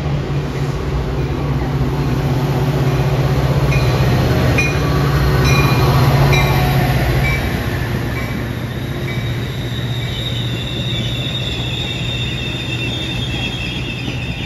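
Metra commuter train passing: the diesel locomotive's low engine hum builds and peaks as it goes by about six seconds in. The bilevel cars then roll past with a steady rumble, and a high wheel squeal sets in in the second half.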